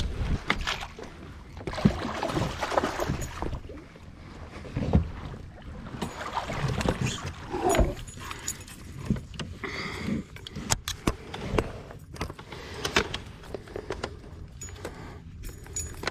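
Irregular clicks, knocks and light rattles of fishing gear being handled aboard a kayak.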